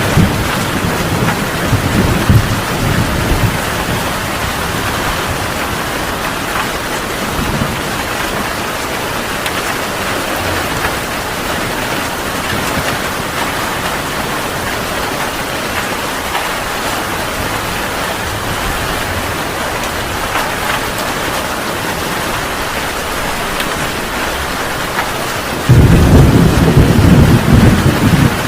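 Heavy rain falling steadily, with the tail of a thunder rumble dying away in the first few seconds. Near the end a loud peal of thunder breaks in suddenly and rumbles on.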